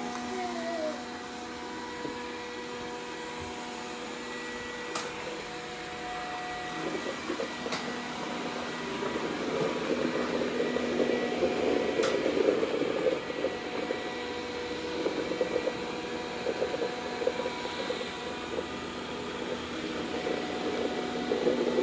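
Dreame D10 robot vacuum running with a steady multi-pitched motor hum. A rougher crackling noise sits over it for a few seconds around the middle and again later, and a few sharp clicks occur.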